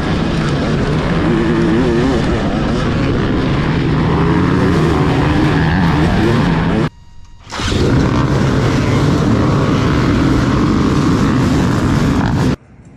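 Dirt bike engines running and revving, the pitch rising and falling. The sound cuts out abruptly for under a second just past halfway, then returns and drops away shortly before the end.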